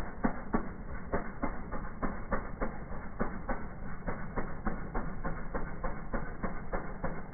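Honda HS720AM single-stage snowblower running and clearing deep snow: a steady engine drone with a rapid, even clatter of about four strokes a second.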